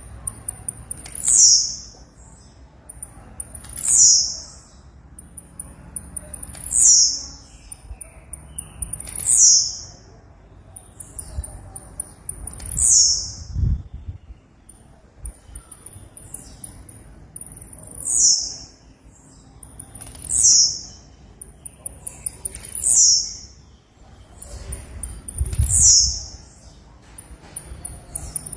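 Blue-black grassquit (tiziu) singing, about ten repeated phrases roughly every two and a half seconds. Each phrase is a quick run of very high ticks ending in a loud, buzzy, falling 'tiziu' note.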